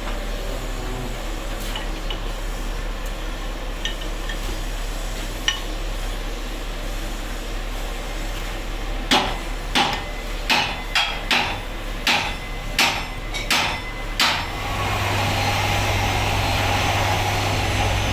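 A hammer strikes stone about nine times in quick succession, light taps spaced roughly half a second apart. Shortly after, a machine starts up and runs with a steady noisy hum over a low drone.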